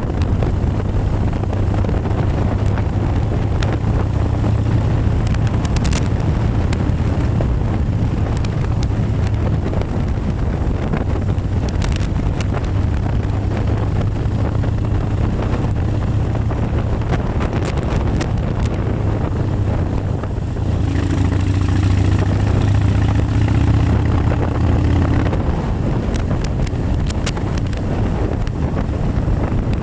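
Motorcycle engine running steadily under way, with wind buffeting the microphone. A little past the middle a higher engine tone joins for about four seconds as it pulls harder.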